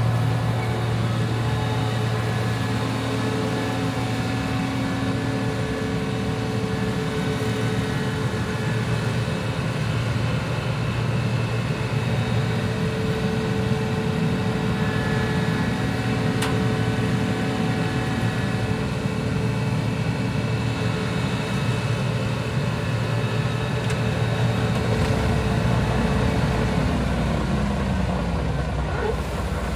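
John Deere 8820 Titan II combine running while harvesting wheat: a steady engine and machinery drone with several held whining tones. Near the end one tone falls in pitch and the deep rumble grows stronger.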